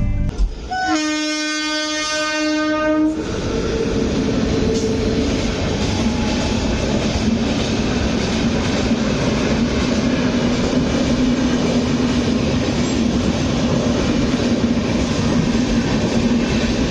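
A train horn sounds one long steady blast starting about a second in, then the train runs on with a steady rumble and clatter.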